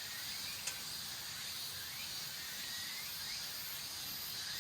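Outdoor ambience with a steady insect drone and hiss, faint short rising chirps about once a second, and a single sharp click about a second in.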